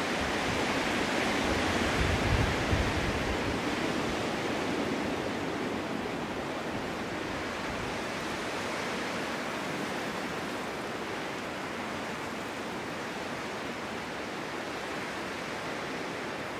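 Snowstorm wind blowing as a steady hiss. A stronger gust swells about two seconds in, adding a low rumble, then eases back to a steady blow.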